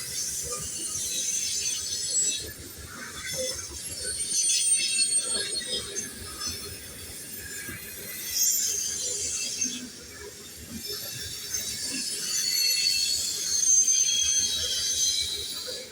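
Train rolling past with its wheels squealing on the rails: high, thin, wavering squeals that swell and fade several times over a low rumble.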